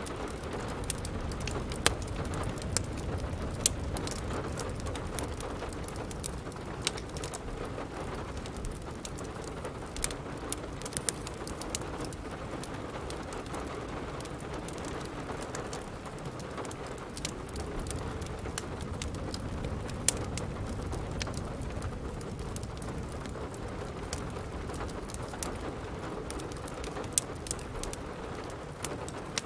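Steady rain, with the sharp irregular pops and snaps of a crackling wood fire scattered through it.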